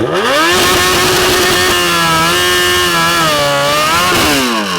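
A vehicle engine revved hard: the pitch shoots up right at the start, is held high with slight wavering for about four seconds, then drops away near the end.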